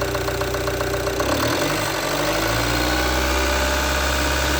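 Ram Rampage 2.2 turbodiesel four-cylinder engine idling with a regular diesel clatter, then revving up about a second in and holding steady at a raised speed of around 2,000–3,000 rpm.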